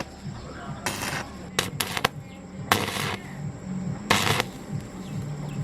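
Irregular sharp workshop sounds from hand work on metal parts, roughly one a second, some doubled, over a low steady hum.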